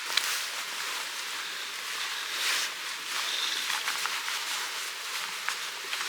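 Steady hiss of a flowing mountain stream, with scattered soft rustles and light clicks from gear being handled.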